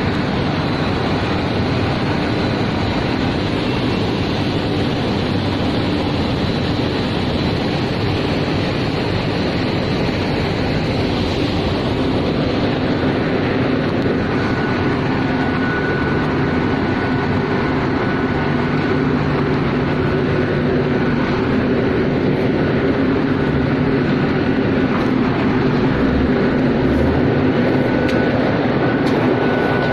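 Truck engine and unloading machinery running steadily while the truck's load is emptied, with a thin steady whine over the low engine hum.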